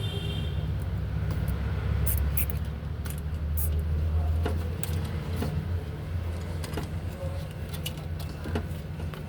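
An engine idling steadily, with scattered clicks and light metallic taps from tools or parts being handled.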